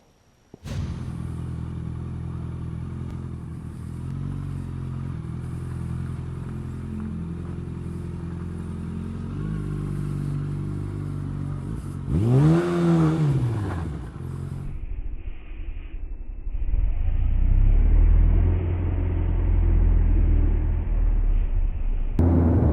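Motorcycle engines over a few cut-together clips: a steady engine hum, then one rev that rises and falls about twelve seconds in, then a louder low rumble of riding after a sudden change.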